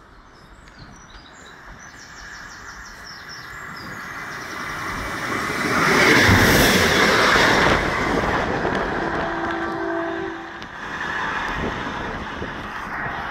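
An East Midlands Railway Regional diesel multiple unit passes through the station. It grows louder as it approaches, is loudest about six to eight seconds in, and then fades as it moves away.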